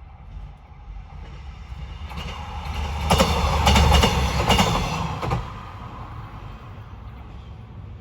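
Train passing over a level crossing, its wheels clacking over the rail joints in a quick run of clicks. It builds up, is loudest about three to five seconds in, then drops away quickly to a low rumble.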